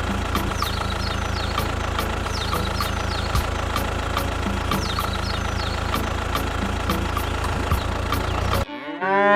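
Small tractor engine idling steadily, with a regular tick about twice a second and high chirps over it. Near the end the engine sound cuts off and a cow starts a loud moo.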